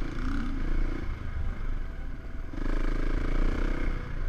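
KTM 690 Enduro R's 690 cc single-cylinder engine pulling under throttle on a trail ride, easing off about a second in and opening up again about two and a half seconds in, with the clatter of the bike over rough ground.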